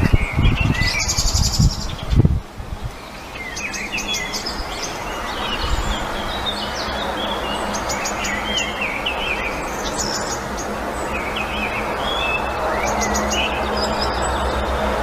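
Small birds chirping and trilling in quick, broken phrases at a white stork nest. There are low thumps on the microphone in the first two seconds.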